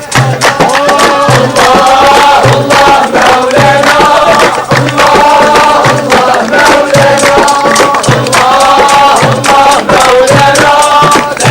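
A group of voices singing a chant together over a steady low beat about once a second, with many sharp claps or strokes across it.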